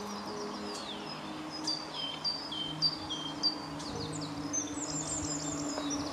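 Woodland birdsong over a steady hiss of forest ambience. Clear whistled notes repeat, alternating between a higher and a lower pitch about twice a second. Later comes a quick run of higher, falling notes.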